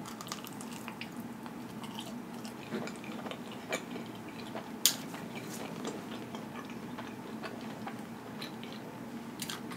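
A person biting into and chewing a mouthful of cheese-filled pizza crust: soft wet mouth sounds with scattered sharp clicks, the sharpest about five seconds in.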